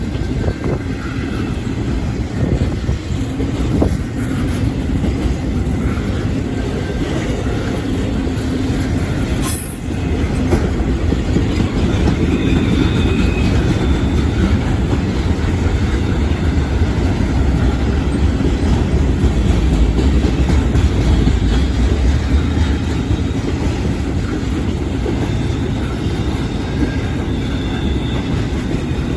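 CSX intermodal freight train's cars rolling past at speed over a grade crossing: a steady rumble of steel wheels on rail, with an occasional thin, high wheel squeal.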